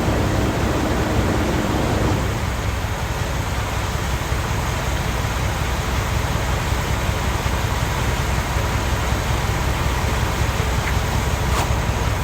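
Vehicle engine idling: a steady low rumble, with a faint humming tone that stops about two seconds in.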